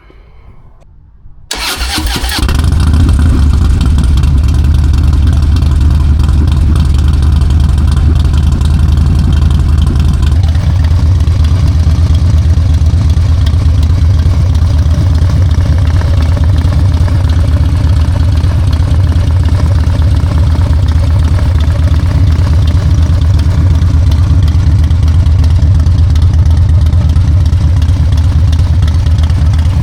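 Harley-Davidson Road Glide V-twin with a Sawicki Speed Shorty 2-into-1 exhaust starting after a brief crank about a second and a half in, then idling loud and steady. The idle settles a little about ten seconds in.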